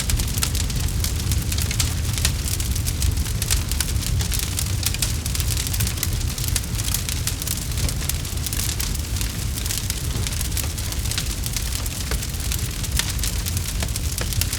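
Campfire crackling: dense, irregular snaps and pops of burning wood over a steady low rumble.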